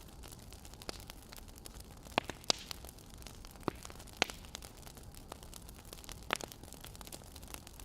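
Burning firewood crackling: irregular sharp pops, about half a dozen, over a steady soft hiss.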